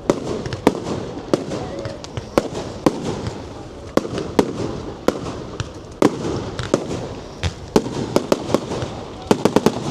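Fireworks exploding in an irregular string of sharp bangs and cracks over a continuous crackle, with a quick flurry of reports near the end.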